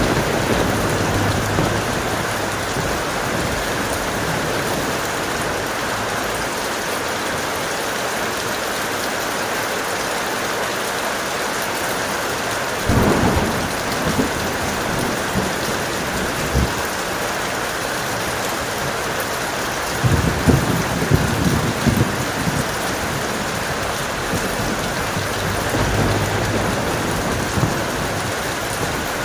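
Heavy rain falling steadily while thunder rolls several times. A rumble comes at the start, a sharp clap follows about thirteen seconds in, and a longer crackling roll runs around twenty seconds in. A softer rumble comes near the end.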